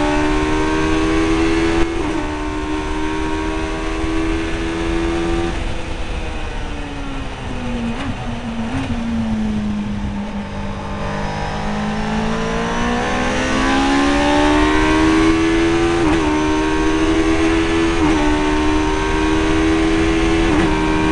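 MK Indy kit car's engine under load at speed. The revs fall as the car slows, with two short throttle blips on downshifts about eight and nine seconds in, and bottom out through a slow corner. The engine then pulls back up under acceleration, with brief dips at gear changes about every two seconds near the end.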